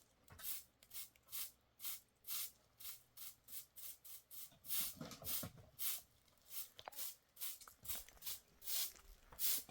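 Regular hissing strokes, about two a second, as of a liquid jet or a rubbing or brushing motion repeated by hand.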